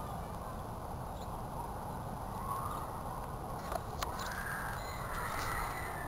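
Bird calls, with two drawn-out calls in the second half, over a steady low rumble; a sharp click about four seconds in.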